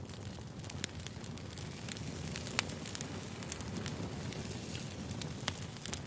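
Firewood crackling as it burns: irregular sharp pops over a low steady rumble of flames, with the loudest pops about two and a half seconds in and again near the end.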